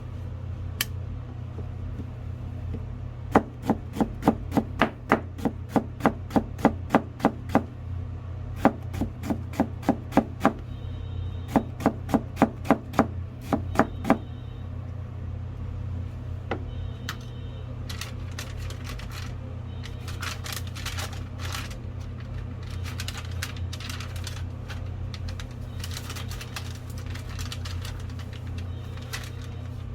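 Knife chopping on a cutting board: crisp strokes about three a second in three runs, then, after a short pause, lighter and quicker cutting strokes, over a steady low hum.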